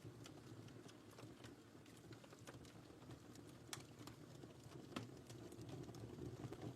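Wood fire in a fireplace crackling faintly: irregular small pops and snaps over a low steady rumble, with a couple of sharper pops past the middle.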